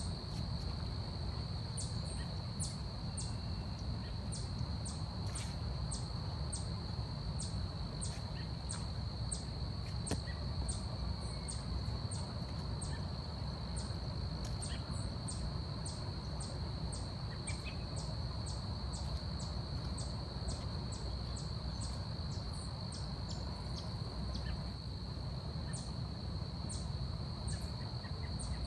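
Forest ambience: a steady high-pitched insect drone, with short, very high chirps repeating about one to two times a second, over a low rumble.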